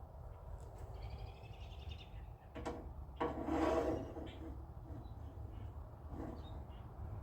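Rubbing and scraping of door-handle and lock parts being worked into place inside a car door, loudest in a rasping scrape about three to four seconds in.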